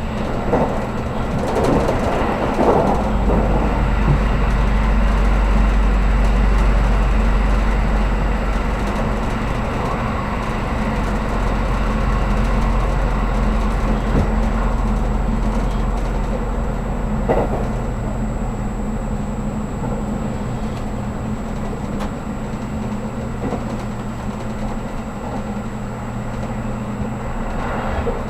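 Inside a 783-series electric express train car running on the line: a steady rumble of wheels and running gear, with a deep hum that comes in about three seconds in and fades out past the middle, and a few brief knocks.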